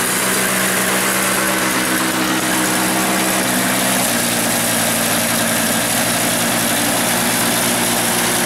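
Toro two-stroke snowblower engine running steadily just after a cold start. Its speed drops slightly about four seconds in.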